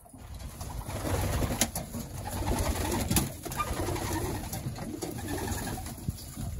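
A loft full of racing pigeons cooing, with a few sharp clicks among them.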